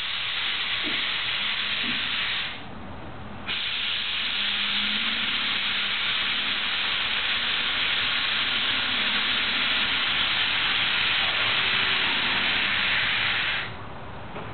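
Airkewld air ride suspension on a 1966 VW Beetle hissing as air is let out of the air bags to lower the car. One short hiss of about three seconds stops, and after about a second a longer, steady hiss starts and runs for about ten seconds before cutting off near the end.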